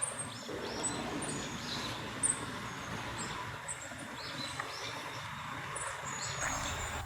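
Small forest songbirds calling: a scattered series of short, high, thin notes, some sliding down in pitch, over a steady background hiss.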